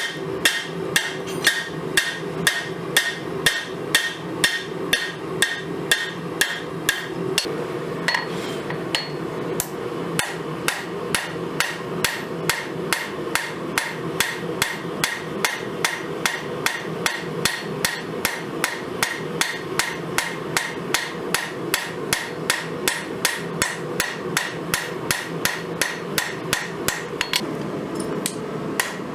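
Hammer blows striking hot spring steel on an anvil, drawing out a knife blade: a steady rhythm of about two to three sharp, ringing strikes a second over a constant background hum.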